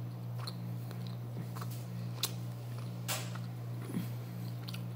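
Quiet close-up chewing while eating grilled pork by hand, with a few short wet mouth clicks, the clearest about two and three seconds in, over a steady low hum.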